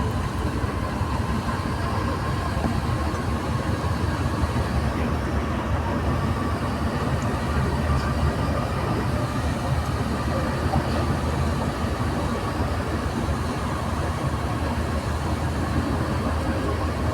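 Santiago Metro NS-93 rubber-tyred train running between stations, heard from inside the car: a steady rumble with a faint even whine.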